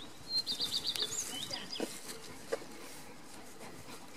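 A small songbird singing a quick, high trill of about six notes, followed by a few short twittering notes.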